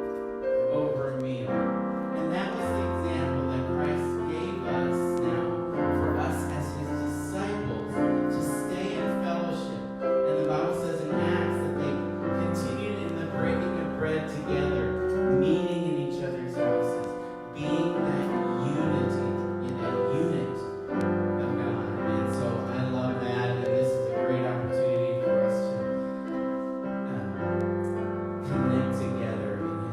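Slow instrumental music led by piano or keyboard, with held chords over a low bass line that changes every second or two.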